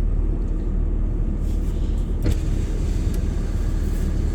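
Vehicle engine and drivetrain running at low speed, a steady low rumble heard from inside the cab, with one sharp click a little over two seconds in.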